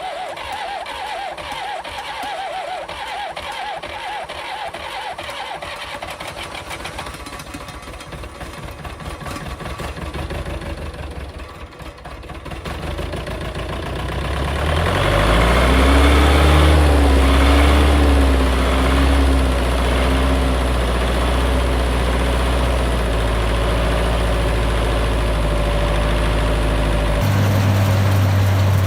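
Large diesel engine cold-starting: it cranks over with rapid, even pulsing for about twelve seconds, catches, and picks up speed, then settles into a loud, steady low idle. Near the end the sound changes abruptly to another engine running.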